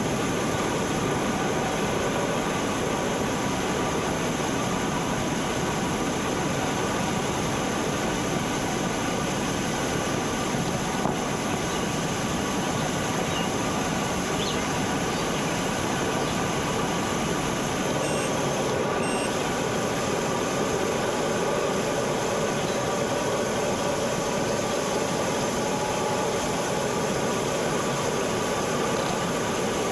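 Steady rushing noise of a bicycle ride on the road, with wind on the microphone and tyre noise running evenly.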